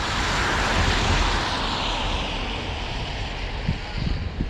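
A vehicle passing by: a rushing noise swells to its loudest about a second in, then fades away, its hiss sliding lower as it goes.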